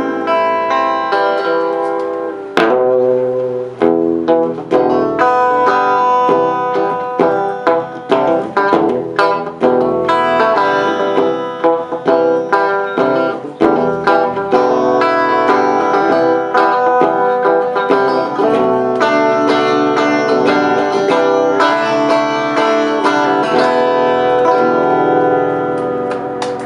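Instrumental passage on a plucked string instrument: a quick run of picked notes and chords, with no singing.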